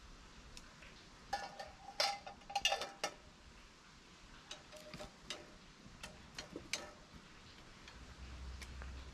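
Metal pieces being handled: a quick run of sharp clinks, some with a short ringing tone, starting about a second in, then a few scattered lighter clicks.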